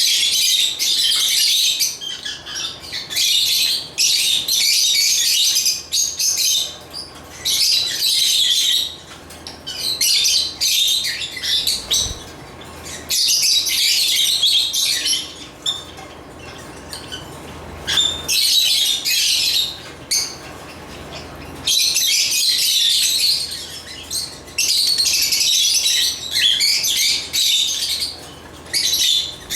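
African lovebirds (Agapornis) chattering and chirping: dense, high-pitched spells of a second or two with short pauses between them.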